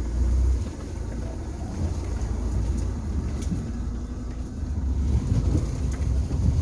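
A vehicle's engine running as it drives along, a low uneven rumble that swells and fades, with wind buffeting the microphone.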